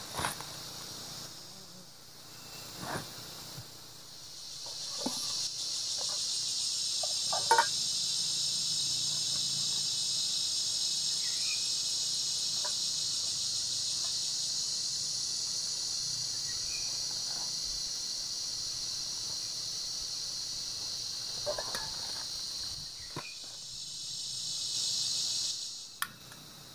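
Steady, high-pitched insect chorus that swells in about five seconds in, holds, and cuts off abruptly near the end. A few short clicks and knocks sound here and there beneath it.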